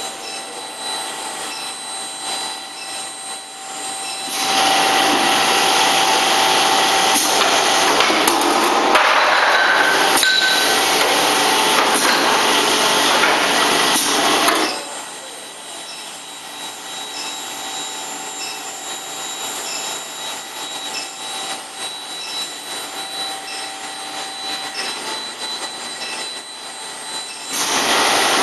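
An automatic bar-end induction heating machine running: several steady high-pitched whining tones with faint regular ticks, and a loud rushing noise that comes in about four seconds in, stops suddenly about fifteen seconds in, and starts again near the end.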